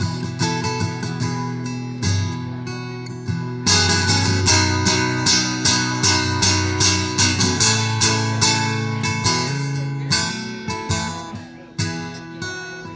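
Acoustic guitar playing an instrumental break in a slow ballad, plucked and strummed chords, growing fuller and more even about four seconds in.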